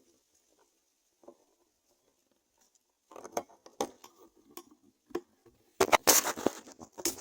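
Dry rustling and scratching, like twigs and leaves being disturbed, in irregular clicks starting about three seconds in and growing into a loud flurry near the end.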